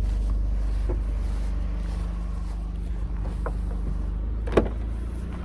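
Car engine running at a steady low hum, with a single sharp click about four and a half seconds in.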